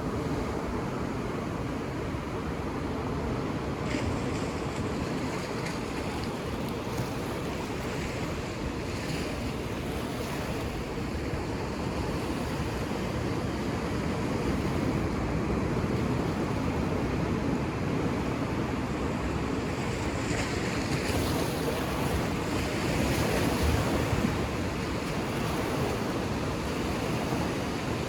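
Ocean surf washing onto a beach in a steady, dense rush, with waves swelling louder twice in the second half.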